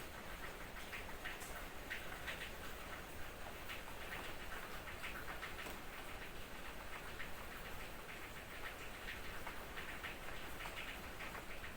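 Light drizzle: a steady hiss of fine rain with many small, quick ticks of drops.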